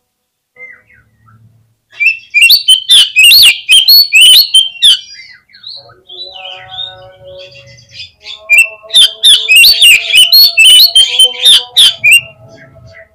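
Oriental magpie-robin (kacer) song: two loud bouts of rapid, sweeping whistles and harsh notes, starting about two seconds in, with quieter chatter between them. It is a lure recording, played to provoke captive male magpie-robins into answering and fanning their tails.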